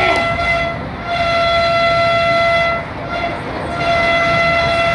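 Vande Bharat Express train horn sounding in long steady blasts over the rumble of the running train: one blast ends just under a second in, a second lasts about two seconds, and a third starts near the end.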